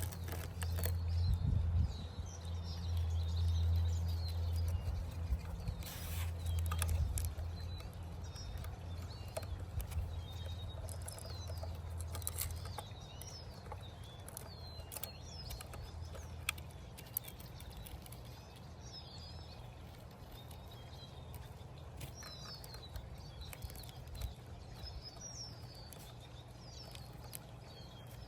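Small birds chirping repeatedly, with a low steady rumble that is strong for the first several seconds and fades away by about halfway.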